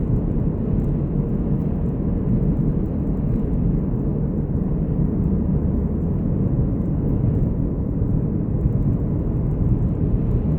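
Steady low rumble of a car driving, heard from inside the cabin: engine and tyre-on-road noise at an even cruising pace.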